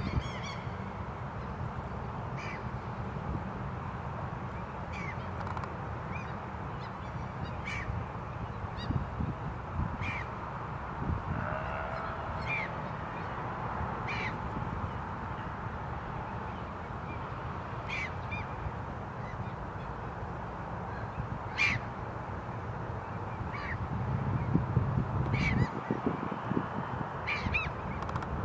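Short bird calls repeat every second or two over a steady outdoor background hiss and low rumble; the rumble swells for a couple of seconds near the end.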